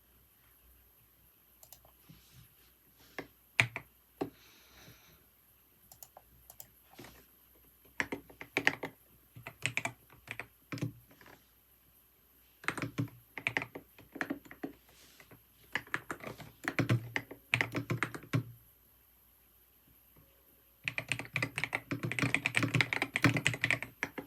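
Typing on a computer keyboard in bursts: a few scattered keystrokes at first, then runs of typing separated by short pauses, and a fast, dense run of typing near the end.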